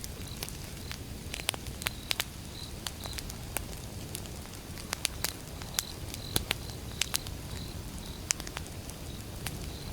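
Campfire: logs burning with a steady low rumble and frequent irregular sharp crackles and pops. A faint, high, chirp-like tone repeats in the background.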